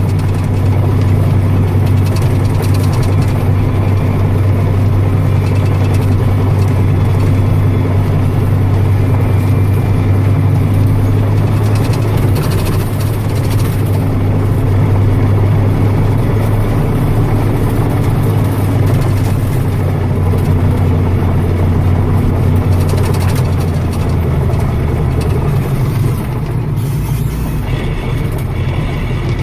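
Agricultural tractor's diesel engine running loud and steady under load while pulling a haul cart, with scattered rattles and knocks from the rough ride. The engine note drops slightly about three-quarters of the way through.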